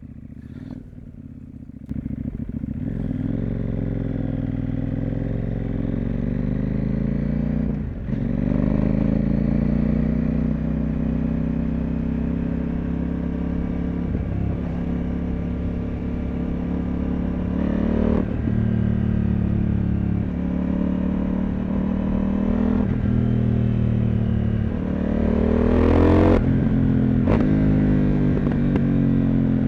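CFMoto 800MT motorcycle's parallel-twin engine accelerating through the gears: the revs climb and then drop sharply at each quickshifted upshift, several times over. It is quieter for the first couple of seconds, then comes on louder.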